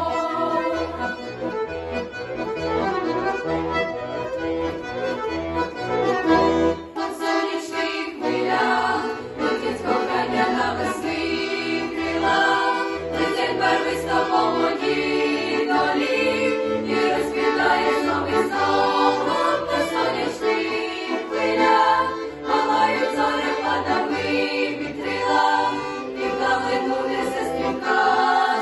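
A school vocal group singing a song in Ukrainian together over an instrumental backing track with a steady beat. The music dips briefly about seven seconds in.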